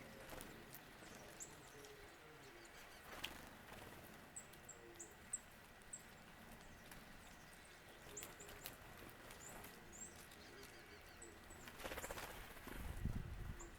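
Faint, very high, thin bird calls: short notes repeated in scattered groups over a quiet outdoor background. A low rumble rises briefly near the end.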